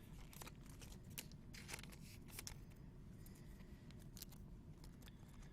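Faint, irregular clicks and soft scrapes of trading cards being handled and slid against one another.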